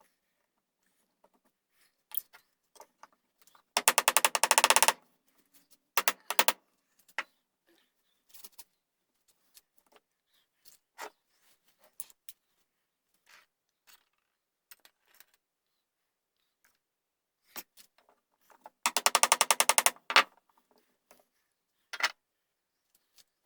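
Hand tools working the wooden gunstock around a buttplate: two rough scraping strokes of about a second each, about four and nineteen seconds in, with scattered sharp taps and clicks in between.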